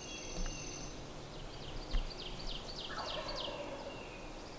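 A wild turkey gobbling faintly in the distance, one short rattling call falling in pitch about three seconds in, over a songbird's run of quick high falling chirps. Two low wind bumps hit the microphone.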